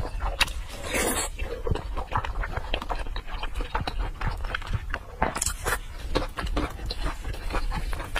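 Close-miked chewing of braised pork knuckle: a steady run of wet clicks and smacks from the mouth, with gloved hands handling the greasy meat near the end.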